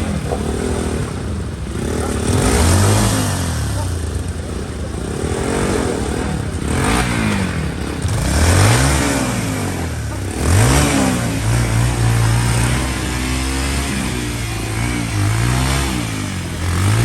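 Motorcycle engine running under changing throttle: its pitch climbs and drops again and again, several times over, with a steadier stretch near the middle.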